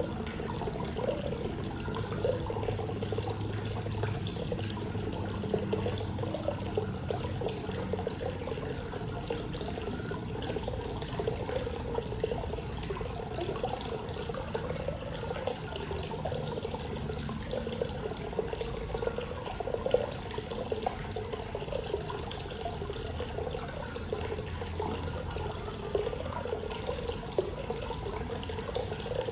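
Hot-spring water pouring steadily into a bath, an even splashing that flickers throughout.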